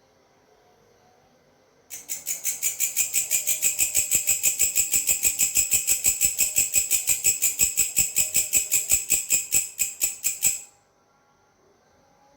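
A belalang (grasshopper-type insect) stridulating in a fast, even train of high-pitched chirps, about six a second, starting about two seconds in and breaking off abruptly after nearly nine seconds.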